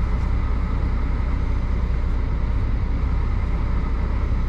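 Steady low rumble of an idling diesel truck engine, running evenly.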